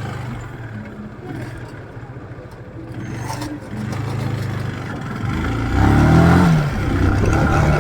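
Motorcycle engine running steadily at low revs, then revving up and accelerating about five seconds in, louder and higher in pitch, and holding a higher steady note near the end.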